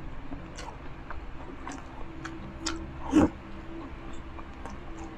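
Close-miked eating sounds: a person chewing with soft, scattered mouth clicks and smacks over a faint steady hum. A short vocal sound comes a little past three seconds in.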